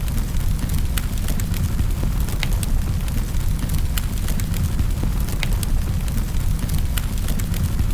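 Wood fire crackling in a fireplace: a steady low rumble of burning logs with sharp pops and crackles every second or so.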